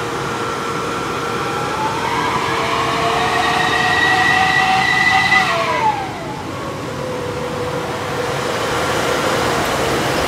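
Heavy diesel trucks working up a steep climb: an engine whine rises steadily in pitch for about four seconds, then drops away quickly about six seconds in, with engine and road noise building again after.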